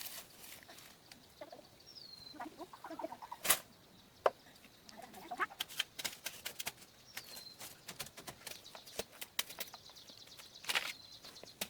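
Bird calls: a few soft clucks and two short falling chirps, among scattered sharp clicks and knocks.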